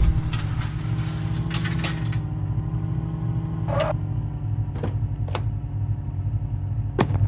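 A car engine running steadily, with a few sharp clicks and knocks over it.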